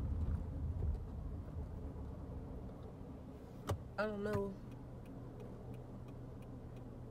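Car cabin with a low engine rumble that fades within the first second, leaving a faint steady hum. A single click and a short hummed voice sound come about four seconds in.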